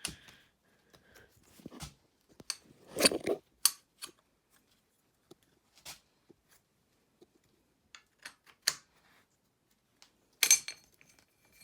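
Hand tools and metal parts clinking and clanking against a dirt bike's frame and engine mount hardware while the top engine mount is worked loose. Scattered sharp knocks with quiet gaps between, the loudest about three seconds in and again near the end.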